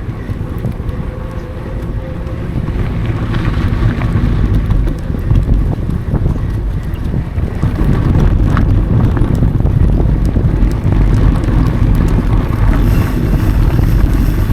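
Wind rumbling on the microphone as a mountain bike rolls along a dry dirt trail, with tyre noise and scattered clicks and rattles from the bike. It gets louder after the first couple of seconds.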